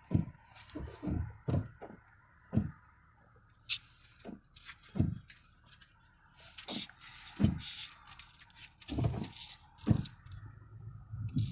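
Scattered rain drops landing close to the microphone: about a dozen irregular thumps and ticks with near quiet between them.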